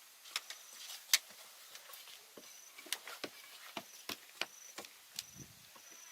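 Irregular sharp clicks and knocks, a few each second and loudest about a second in, over a faint high whine that comes and goes.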